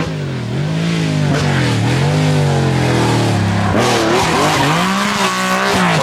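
Rally car engine revving up and falling back several times in quick succession: the throttle is blipped on and off as the car is driven hard.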